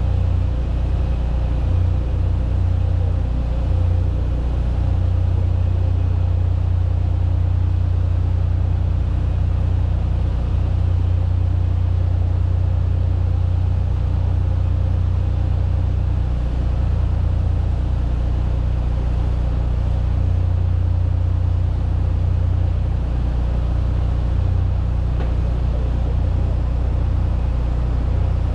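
Drilling rig running as it drills: a steady, continuous low engine drone that holds the same level throughout.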